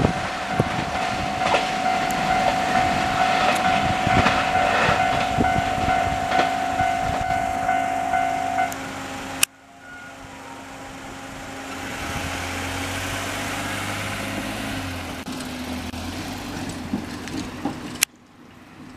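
A JR 221 series electric train running over a level crossing, its wheels clattering over the rail joints, with a steady high tone that stops about nine seconds in. The sound then cuts abruptly to a quieter, steadier train rumble with a low hum, and cuts again near the end.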